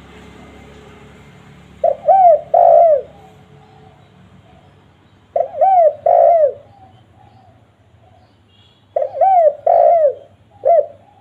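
A spotted dove cooing: three short phrases of two to three rounded coo notes each, spaced about three and a half seconds apart.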